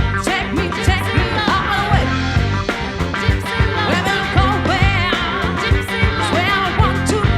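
Live band playing: drums, bass, electric guitar and keyboards, with a wavering melodic lead line above a steady beat.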